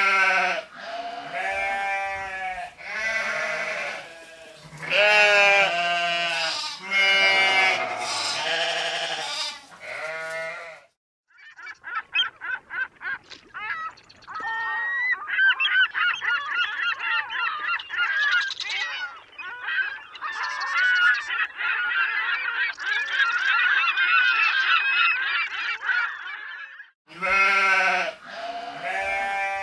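Repeated wavering bleats, then a long stretch of many geese honking together as a dense, overlapping clamour, with the bleating returning near the end.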